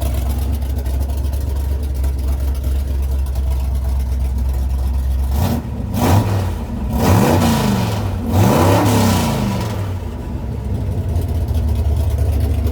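Ford 429 Cobra Jet big-block V8 idling steadily, then revved three times in quick succession about halfway through, each rev rising and falling before the engine settles back to idle.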